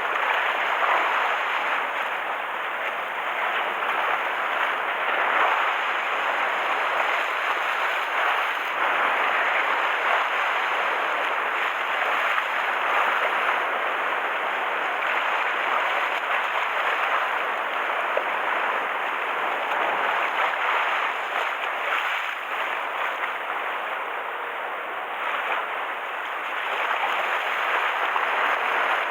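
Choppy sea water washing and splashing in a steady rush with wind, the rough water stirred up as a typhoon approaches; the level swells and eases slightly without ever stopping.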